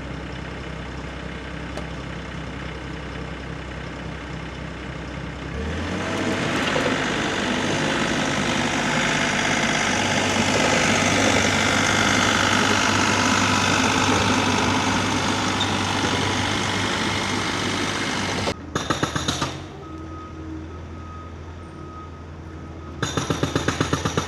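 Backhoe engine running steadily, then revving higher about six seconds in and dropping back toward idle near eighteen seconds. After that come two short bouts of fast rattling.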